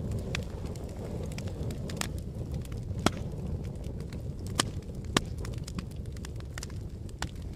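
Fire burning with a steady low rumble and irregular sharp crackles and pops, three of them louder than the rest.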